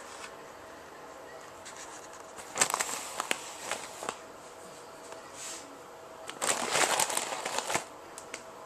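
Hand-cranked Grain Maker grain mill grinding grain on a fine setting, turned slowly. The grain crackles and crunches in two bursts of about a second and a half each, a few seconds apart.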